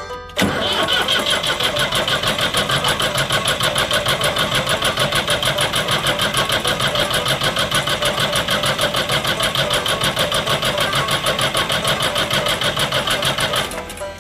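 Ford 4600 tractor engine being cranked on its starter without catching, a fast, even pulsing of about seven beats a second that begins suddenly and cuts off near the end. The engine has run out of fuel, and fuel isn't reaching it.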